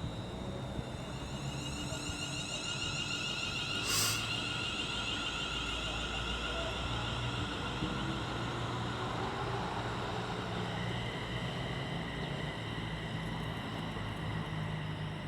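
Two coupled Class 350 Desiro electric multiple units pulling out of the station, their traction motors whining with a slowly rising pitch as they gather speed. There is a brief hiss about four seconds in.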